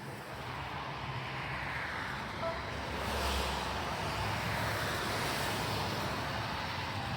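Steady rumble of passing vehicles, with faint whines that fall in pitch and then rise again.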